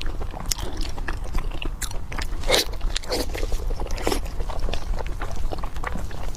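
Close-miked eating of pork: biting and chewing in a dense run of short wet clicks and crunches, with a few louder bites in the middle, over a steady low hum.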